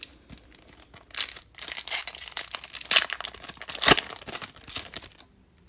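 Foil trading-card pack wrapper crinkling and tearing open, a run of sharp crackles that is loudest about three and four seconds in and stops about five seconds in.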